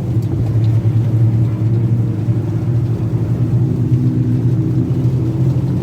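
Engine of a road tourist train running at a steady low hum while it rides along.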